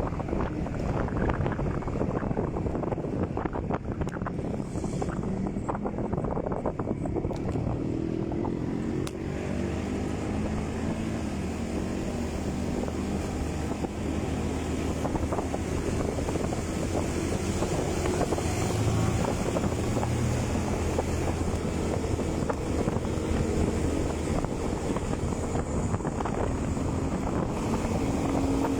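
Motorcycle engine running while riding, its pitch shifting up and down as it speeds up and slows, with wind buffeting the microphone.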